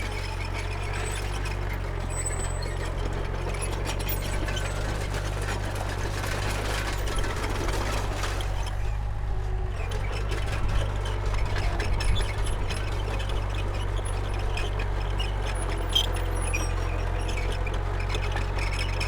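Komatsu D31P bulldozer's diesel engine running steadily at work, with scattered clicks and knocks from the machine.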